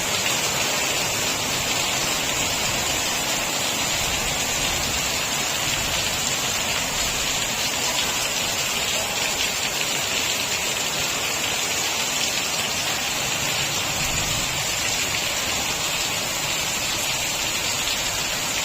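Steady rain falling, an even hiss with no let-up or thunder.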